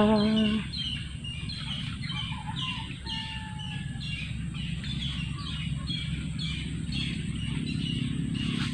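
A bird calling over and over in short, high, falling chirps, about two a second, with a couple of longer whistled notes about two to four seconds in, over a low steady rumble.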